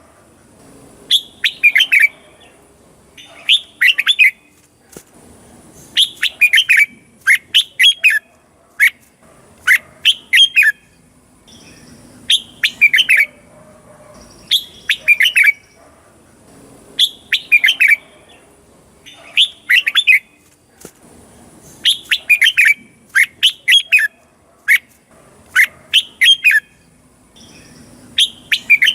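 Red-whiskered bulbul singing: short, loud phrases of quick chirping notes, each note sliding down in pitch, repeated every second or two with brief gaps.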